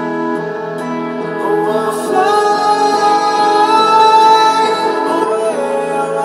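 A pop song with a female singer played loud through an 8-inch car-audio midrange speaker under test, with no deep bass.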